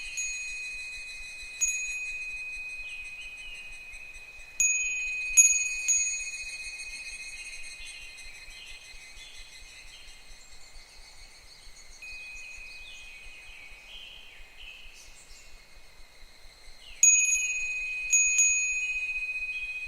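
Japanese fūrin wind bell struck by the wind in scattered strikes, each high, clear ringing note fading slowly, with two strikes close together about a quarter in and two more near the end. Higurashi cicadas call underneath in a repeating pattern of short falling notes.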